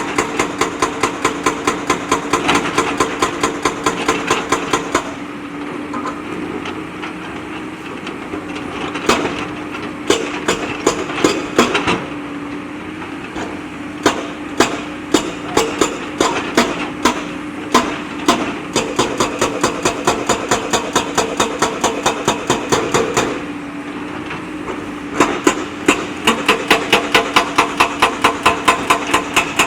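JCB backhoe loader's diesel engine running steadily, with spells of rapid, regular clanking knocks, about three to four a second, that start and stop several times.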